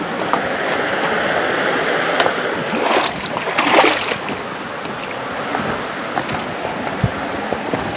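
Steady rush of a river flowing over rocks, with a louder splashing swell about three to four seconds in and scattered small ticks and drips.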